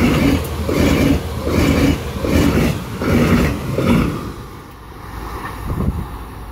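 Double-deck passenger coaches of a regional train passing close at speed, their wheels clattering over the rails in a rhythmic beat about once a second as each coach goes by. About four seconds in the clatter stops and the sound fades as the train runs away down the line.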